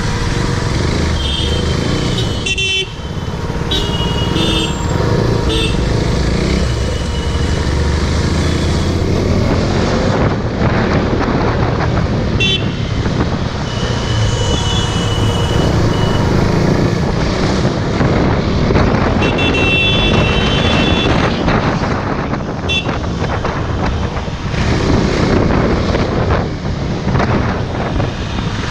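Motorcycle riding through road traffic, with steady engine and road noise. Vehicle horns toot briefly several times along the way.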